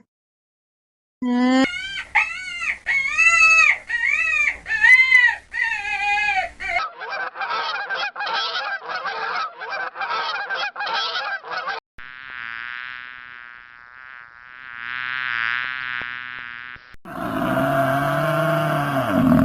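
Farm animal calls edited one after another: a quick run of honking calls, then a fast buzzing rattle, then two long drawn-out calls and a lower call near the end.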